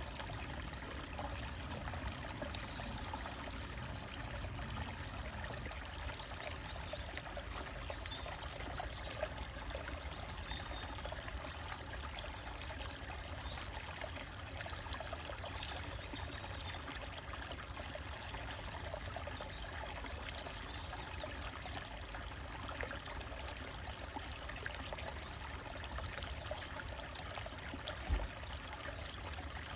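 Small stream trickling and splashing over rocks, a steady rush of running water. A few faint high bird chirps come through, and there is a brief thump near the end.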